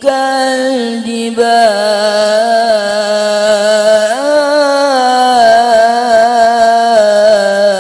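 Solo Quran recitation in melodic tilawah style: a single voice draws one word out into a long, ornamented melisma, wavering in pitch with small trills and stepping up about four seconds in.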